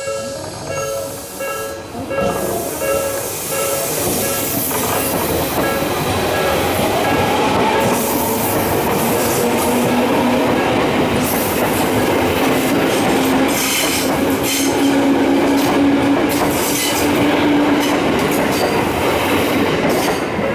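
Electric commuter train passing close by, with loud wheel and rail noise and some clatter and squeal. A steady motor whine rises slowly in pitch through the middle of the pass.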